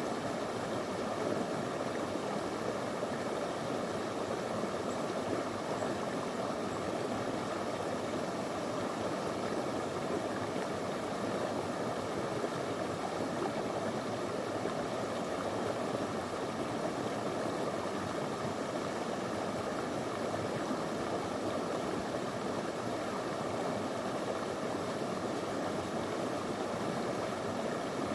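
Small stream of clear water flowing steadily over stones, a constant rushing babble.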